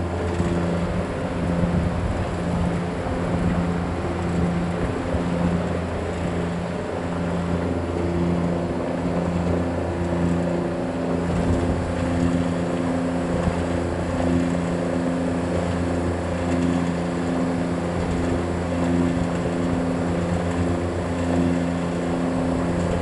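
Thirty-year-old Zamil packaged air conditioner running: a steady low compressor-and-fan hum with a few pitched tones that waver in and out. The unit is running again after its filter drier and oil pressure switch were replaced.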